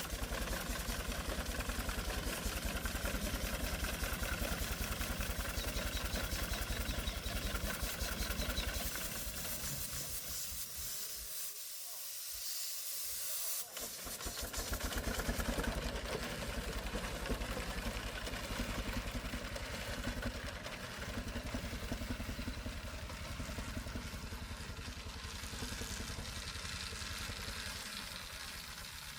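Engine running with a regular, even firing beat for about nine seconds. It then gives way to a steady hiss, and the low sound almost drops out for a few seconds around the middle.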